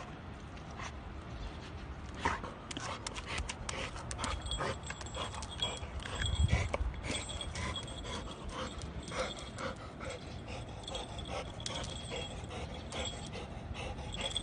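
A dog panting while it chews on a rubber chew toy, with many small clicks and gnawing noises throughout and a dull thump about halfway through.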